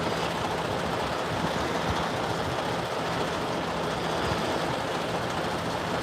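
Vehicle engine idling steadily, a low even hum under a constant rushing noise.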